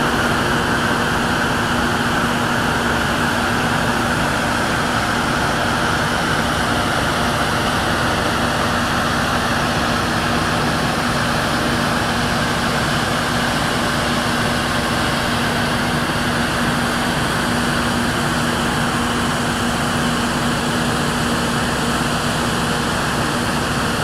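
Ferry's machinery droning steadily: an even, loud mechanical rush with one low steady hum running under it.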